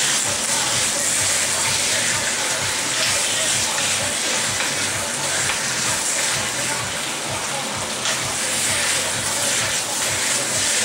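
Chicken pieces stir-frying in hot oil in a pan: a steady crackling sizzle.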